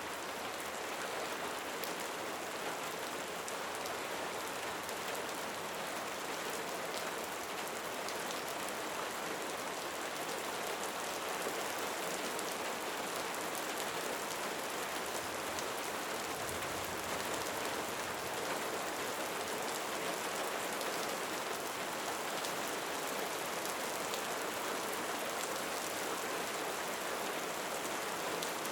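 Steady rain falling, a dense even hiss with fine scattered drop ticks.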